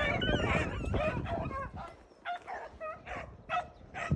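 Pack of beagles baying while running a cottontail's track, a string of short overlapping bawls that thin to single calls about twice a second. Wind rumbles on the microphone in the first two seconds.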